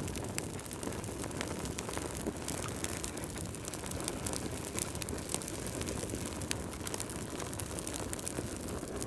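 Wood fire crackling in a fireplace, with many small, irregular pops and snaps over a steady low rush of flame.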